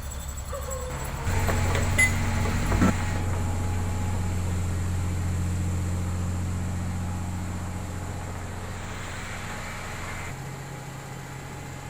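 Diesel engine of a heavy road-building machine running. About a second in the engine note steps up as it is throttled up, with two short knocks soon after, then eases down and settles back to a lower idle near the end.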